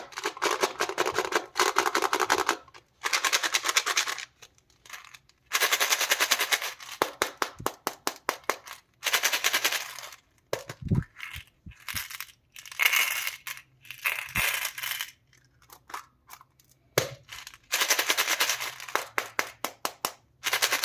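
Plastic packaging crackling and crinkling in bursts of a second or two, with short pauses between, as wrappers are handled and opened. A brief low thump comes about eleven seconds in.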